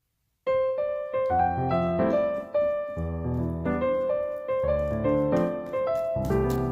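Background piano music: a melody of separate notes over low chords, starting about half a second in.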